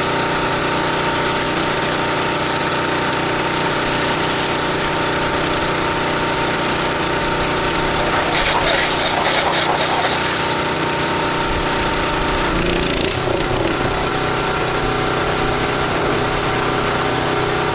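Gas-engine pressure washer running steadily while rinsing a house wall with plain water, the engine's note changing about twelve seconds in.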